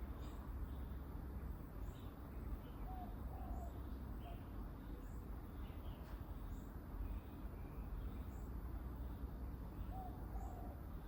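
Birds calling in a garden: a short, high, falling note repeats about every one and a half seconds, and a brief lower phrase comes twice, about three seconds in and again near the end, over a steady low rumble.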